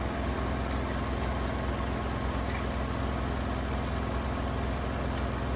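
Steady low mechanical hum, with a few faint light clicks as a metal head gasket is handled and set onto the cylinders.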